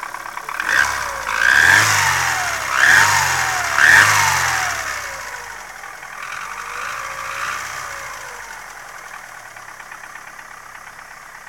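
Chevrolet Aveo 1.5 four-cylinder engine, run from cold, revved in four quick throttle blips about a second apart, then a gentler one, before dropping back to idle. The engine has a knock with a whistle when cold.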